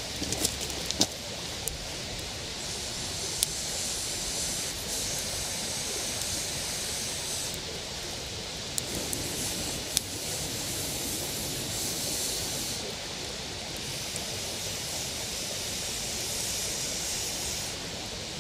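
Campfire for grilling skewered, salted rainbow trout, giving a few sharp crackling pops, several in the first second and single ones later, over a steady rushing hiss.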